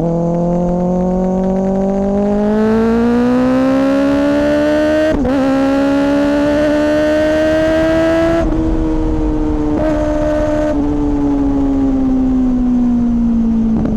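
2024 Kawasaki ZX-6R's inline-four running through an M4 slip-on exhaust. It pulls with rising pitch, breaks briefly about five seconds in as it shifts up, and pulls again. A little past eight seconds the throttle eases off and the pitch settles into a slowly falling drone.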